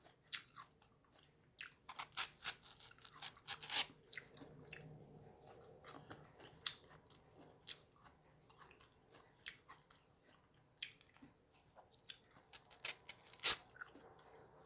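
A person biting and chewing crisp, firm mango flesh, with irregular crunches and wet mouth clicks.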